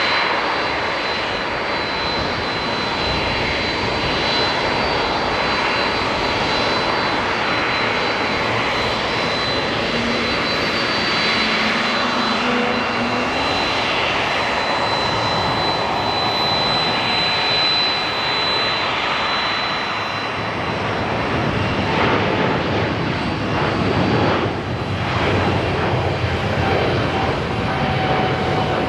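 Jet airliner engines running at high power: a steady roar with a high whine over it. The whine fades about twenty seconds in and a rougher rumble takes over.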